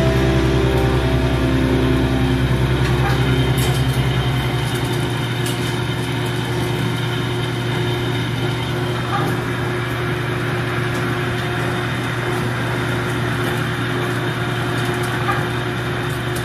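A ship's engine running with a steady hum. The deepest part of the rumble drops away about four and a half seconds in.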